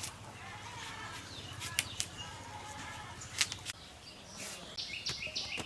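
Birds calling, with a short run of high chirps near the end, and a few sharp knocks.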